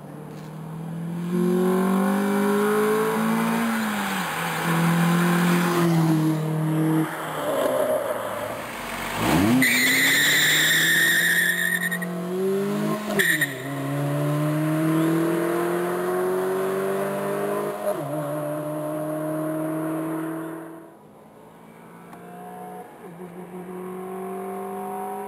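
2003 Dodge Neon R/T's four-cylinder engine at full throttle, its pitch climbing again and again with brief breaks at the gear shifts. It passes at speed with a sharp drop in pitch about nine seconds in, tires squealing briefly just after. The engine climbs again, drops away suddenly a few seconds before the end, and is then heard faint and rising as the car approaches again.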